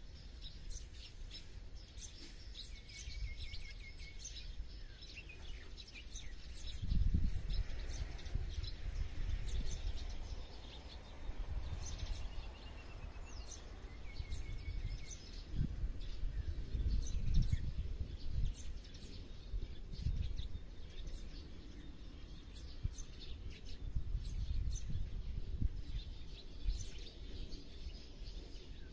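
Many birds chirping and calling in short high notes throughout, with a few brief warbled phrases, over a low rumble that swells and fades several times, loudest about a quarter and two-thirds of the way through.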